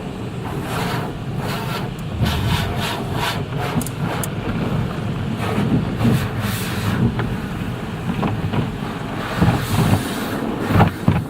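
Automatic car wash equipment working over the car, heard from inside the car: a loud, steady rush of water on the body with many irregular slaps and thuds.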